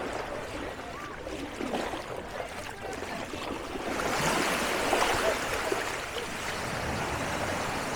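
Beach ambience: small waves washing on the sand, with a louder wash about four to five seconds in, and faint voices of people nearby.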